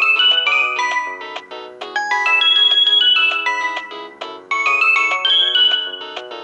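Samsung GT-E1182 phone ringtone: an electronic melody of quick, short notes, playing in phrases that begin again about every two to two and a half seconds.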